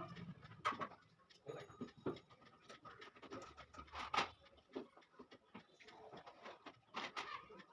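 Faint, scattered clicks, knocks and scrapes of parts being handled during washing-machine reassembly, a few sharper knocks standing out, one about four seconds in.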